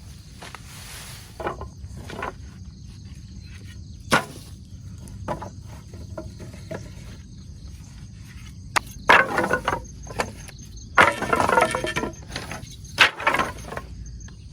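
Wood being handled: dry sticks and branches snapping and cracking in scattered sharp breaks, with two louder bouts of cracking and rustling in the second half. Insects chirp steadily in the background.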